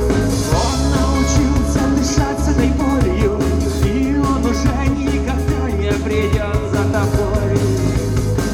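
Live rock band playing: drums, bass and guitars, with a melodic lead line that bends in pitch over the top.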